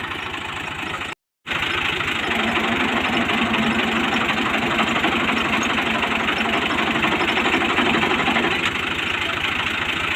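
Tractor's diesel engine running with a steady firing beat. The sound cuts out for a moment about a second in.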